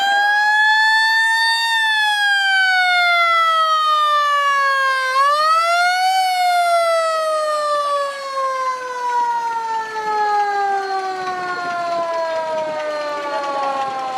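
A siren wailing: one loud tone that rises, falls, rises again briefly about five seconds in, then slides slowly down in pitch.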